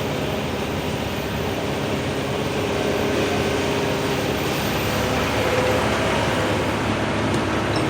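Excavator's diesel engine running steadily under work, its noise rising a little about three seconds in.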